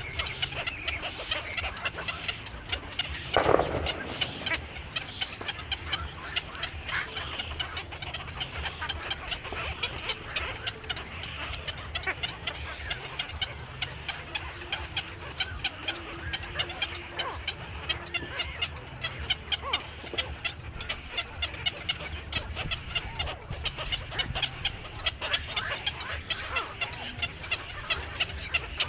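A flock of birds chirping and chattering continuously, many short calls overlapping, with one louder, lower call about three and a half seconds in.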